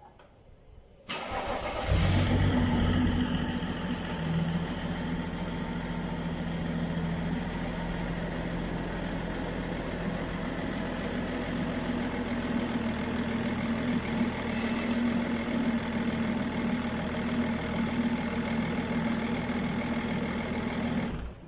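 Cold start of a 2001 BMW 530d's 2.9-litre straight-six turbodiesel: the starter turns for about a second, the engine catches and flares loudly, then settles into a steady idle.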